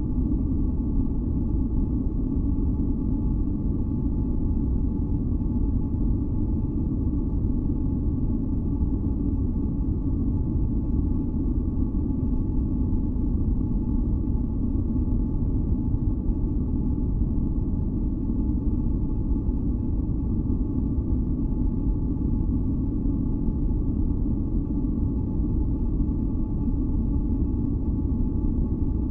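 Continuous white-noise track for sleep: a steady, deep rumbling hiss with a few faint held tones above it, unchanging throughout.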